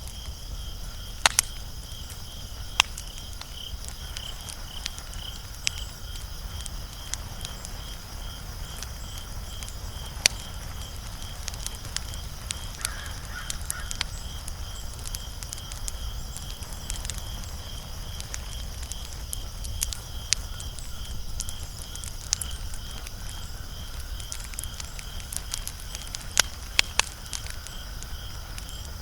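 Wood fire crackling, with scattered sharp pops. The loudest come about a second in, near three seconds, around ten seconds and near the end. Underneath runs a low steady rumble and a faint, steady, high pulsing tone.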